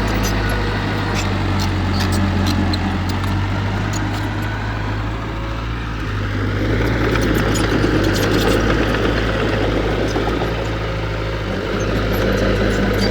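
Heavy diesel earthmoving machinery running steadily, with scattered light ticks and clanks. The running grows louder for a couple of seconds past the middle.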